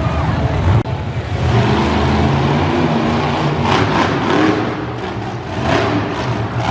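Monster truck engine running and revving up and down, with louder surges about four and six seconds in.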